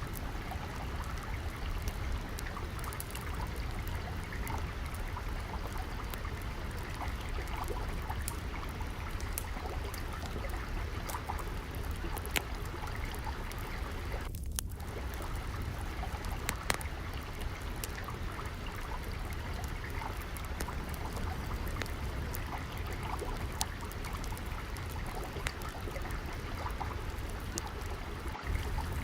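Steady trickling, flowing water with the irregular snaps and pops of a crackling wood fire scattered through it.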